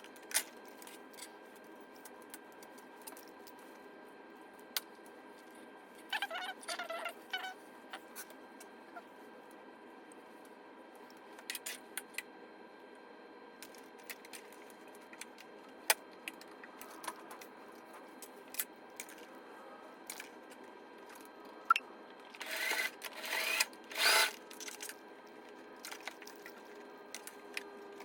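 Mostly quiet room tone with scattered light clicks and handling sounds. Two brief louder bursts break it, one about a quarter of the way in and one near the end.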